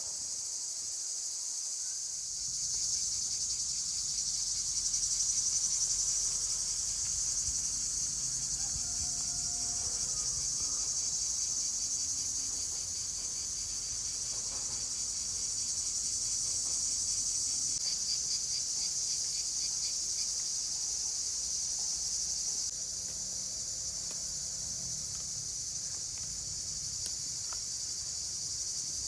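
Chorus of crickets or similar insects: a steady, high-pitched trilling.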